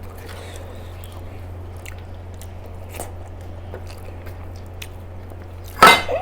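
Mouth sounds of people chewing and eating a rice meal, with faint small clicks over a steady low hum. Near the end a short, loud vocal sound breaks in.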